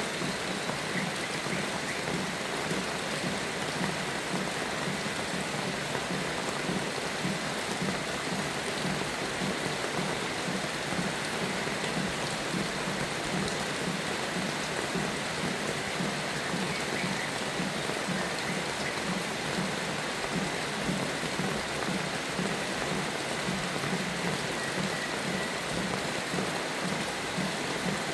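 Steady rain falling, an even continuous hiss with no breaks or distinct events.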